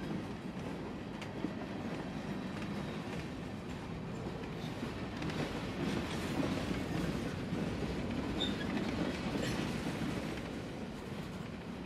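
Empty covered hopper cars of a freight train rolling past: a steady rumble of steel wheels on the rails, with occasional clicks as the wheels cross rail joints.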